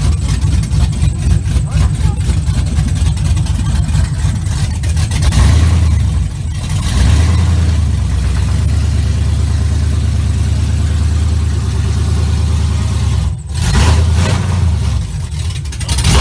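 Pickup truck V8 with a freshly installed cam running at a choppy, pulsing idle, then revved up and held at higher revs for several seconds, blipped once more and let fall back to idle near the end.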